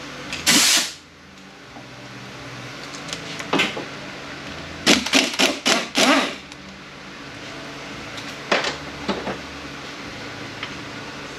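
Hand tools clinking and scraping on metal automatic-transmission parts during teardown: a short rush of noise near the start, a single knock about three and a half seconds in, a quick run of clanks around five to six seconds, and a few more near nine seconds, over a steady low shop hum.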